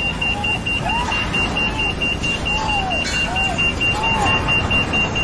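Warning beeper on a running machine: a steady high-pitched beep repeating rapidly, about four times a second, over the rumble of an engine, with a few short rising-and-falling tones in between.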